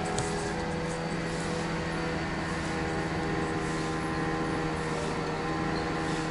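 A machine running steadily, a continuous mechanical drone made of several held, unchanging tones over a hiss.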